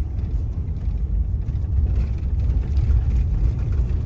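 A car driving along a road: a steady low rumble.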